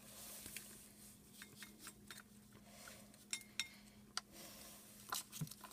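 Faint, scattered clicks and clinks of a cat's food bowl as wet cat food is tipped and squeezed into it, with a soft scraping rustle in the first second.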